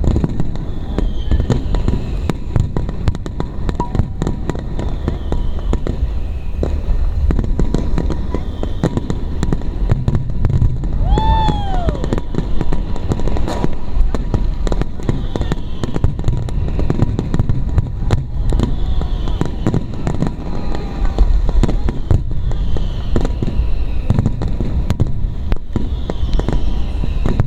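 Fireworks display going off densely: rapid bangs and crackling over a continuous low rumble. About eleven seconds in, a firework whistles with a falling pitch.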